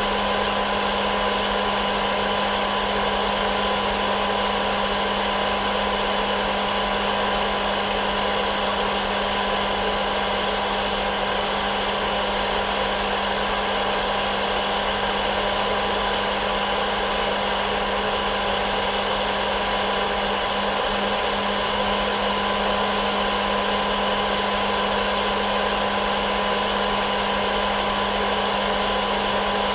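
Hair dryer running steadily as sleep white noise: an unchanging blowing noise with a steady low hum and a faint whine.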